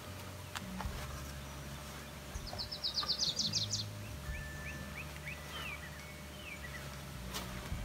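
A songbird singing: a fast, high trill of about ten notes, then a few quick chirps. A few faint knocks sound over a steady low hum.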